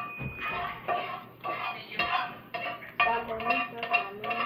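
Cutlery and dishes clinking and scraping during a meal, in a series of short irregular knocks.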